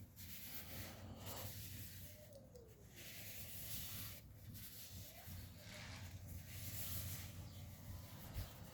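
Faint, uneven rubbing and scratching of a rag wiping dirt off a piston ring.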